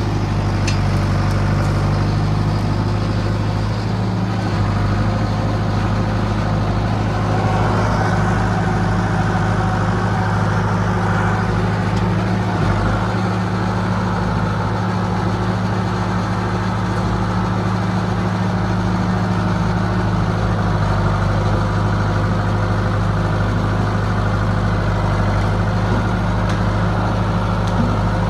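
John Deere 450B crawler dozer's diesel engine running steadily, with a brief click about a second in.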